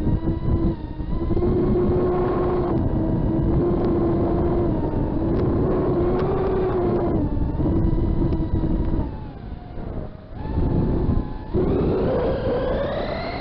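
FPV racing quadcopter's brushless motors and propellers whining at a steady pitch over a rushing noise. The whine dips off twice in the second half, then climbs sharply in pitch as the throttle is pushed up near the end.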